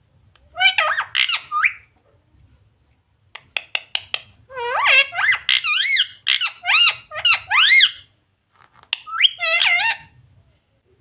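Ringneck parrot squawking and chattering in several bursts of high calls that swoop quickly up and down in pitch, with a run of short clicks shortly before the longest burst.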